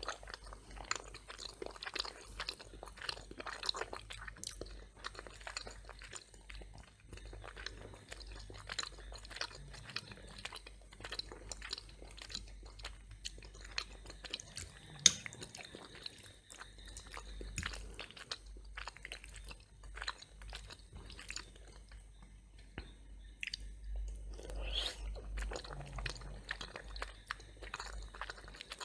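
A person chewing and crunching food, most likely the crunchy toast, with many small crisp crackles and one sharp, loud crunch about halfway through.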